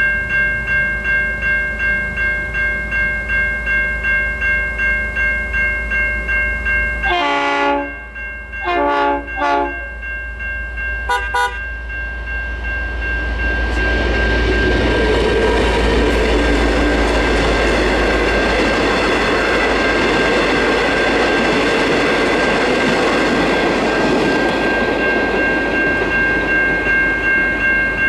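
The crossing's electronic level-crossing bells (a Safetran Type 3 and a Siemens Type 3) ring continuously with a steady pulsing beat. A train horn sounds three blasts about seven to ten seconds in, then a short toot around eleven seconds. From about thirteen seconds the train rumbles through the crossing with a loud rushing noise while the bells keep ringing.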